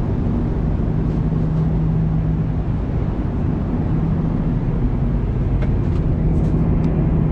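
Airbus A330-200 cabin noise in flight: a steady roar of airflow and engines with a constant low hum underneath. A few faint ticks near the end.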